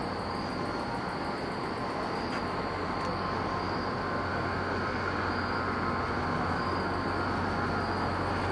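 Distant train approaching on the rails: a steady low rumble with a constant hum, growing slowly louder.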